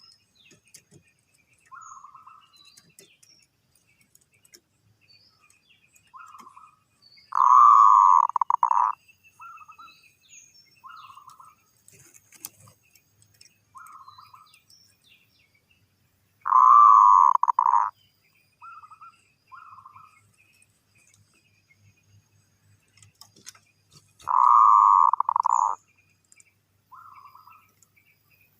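Zebra dove cooing: three long, loud rolling coos about eight seconds apart, with short soft coos between them.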